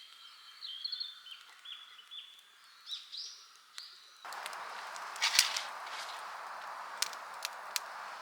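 Small birds chirping and singing in short high phrases. About four seconds in, this gives way to a steady outdoor noise broken by sharp clicks and snaps.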